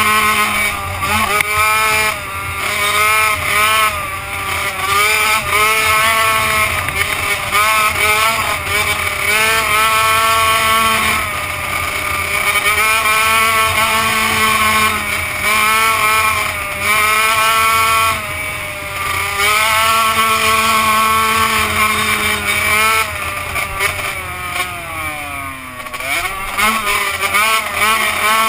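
Two-stroke motocross bike engine revving up and down over and over as the throttle is opened and closed. Near the end the pitch drops slowly as it comes off the throttle, then climbs again.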